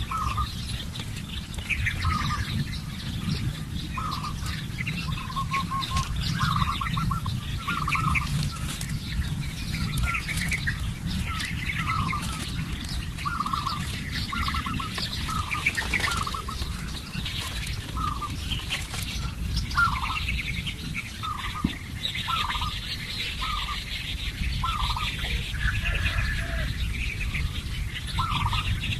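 Several birds calling: one repeats a short call about once a second while others chirp higher, over a steady low rumble.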